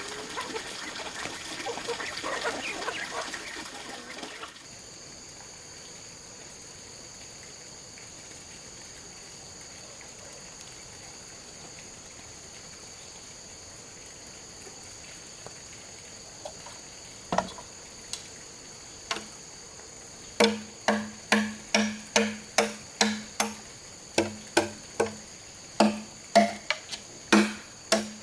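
Water pouring and splashing for the first few seconds, then a steady high insect drone. About two-thirds of the way through, a blade begins chopping hollow bamboo: sharp strikes about two a second, each with a short hollow ring.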